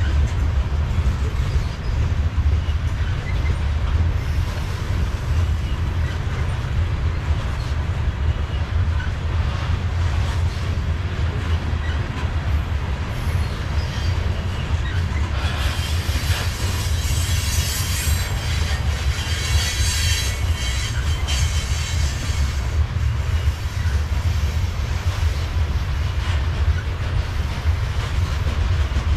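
Covered hopper freight cars rolling past with a steady low rumble of wheels on rail. About halfway through, wheels squeal high-pitched for several seconds, then fade back into the rumble.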